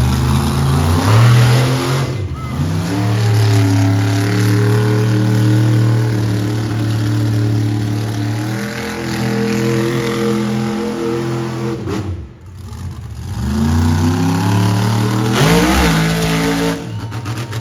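Monster truck engine running loud and revving, holding steady, then dropping off sharply about twelve seconds in before climbing back up in pitch.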